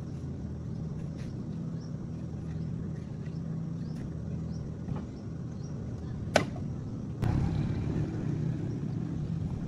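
A steady low machine hum with a few faint clicks and one sharp click about six seconds in; the hum jumps louder about seven seconds in.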